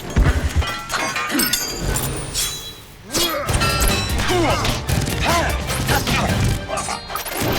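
Animated-film fight soundtrack: dramatic music over a rapid string of hits, swishes and crashes.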